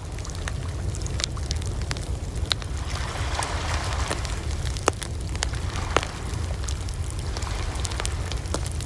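Wood fire crackling, with many small snaps and a few louder pops about 2.5, 5 and 6 seconds in, over a steady low rumble.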